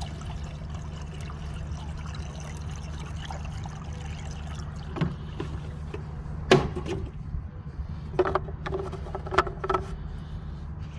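Peugeot 307 engine running with a steady low hum, with a few sharp knocks or clatters about halfway in and near the end.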